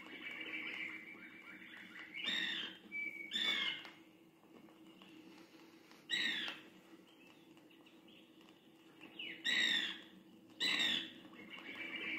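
Recorded wild bird calls: five loud, sharp calls a second or more apart, over a softer steady chatter of other birds and a low hum.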